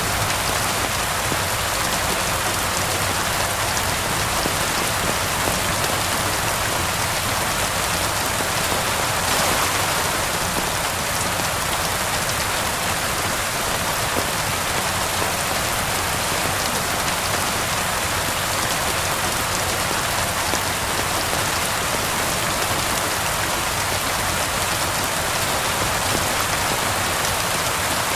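Steady, continuous rain falling and pattering on surfaces, with a slight swell about a third of the way in.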